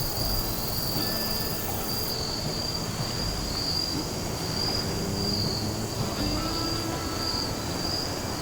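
A chorus of insects chirping in a steady, evenly pulsing high trill, over a low rumbling background noise.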